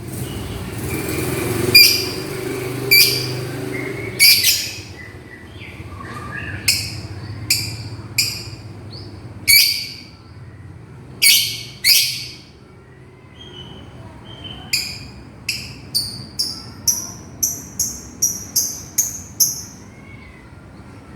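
Lovebird calling its companion with short, shrill, piercing calls, spaced a second or more apart at first, then a quick run of about a dozen calls, roughly three a second, near the end. A low steady rumble sits under the first few seconds.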